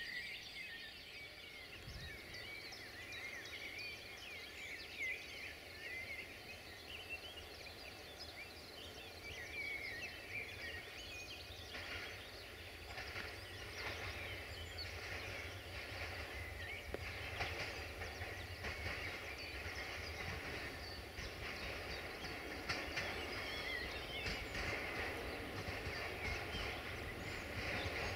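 Songbirds chirping over a diesel multiple unit approaching on the line. The train's low engine rumble builds from about halfway through and is loudest near the end.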